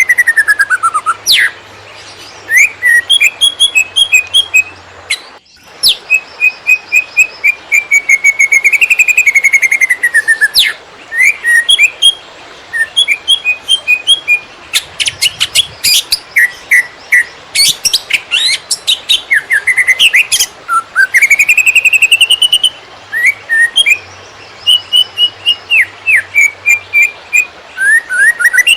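Cucak ijo (green leafbird) singing a fast, nearly unbroken chattering song in the "konslet" style: rapid runs of repeated chirps mixed with long whistled slurs, one falling at the start and one rising about three quarters of the way through, with a brief break a few seconds in.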